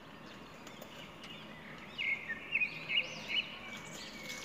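Bird chirping: a quick run of short, high chirps from about two seconds in, over low background noise.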